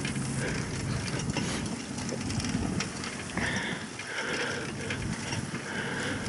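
Car engine and road noise while driving, a steady low rumble.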